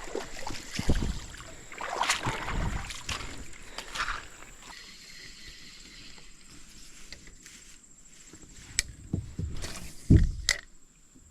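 Irregular splashing and knocks around a kayak while a hooked fish fights on the line, with a few louder thumps near the end.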